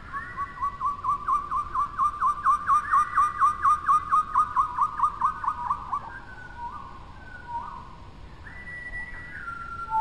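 A bird's rapid series of short, whistled, downslurred notes, about five a second, swelling and then fading over about six seconds. A few longer, scattered whistles follow.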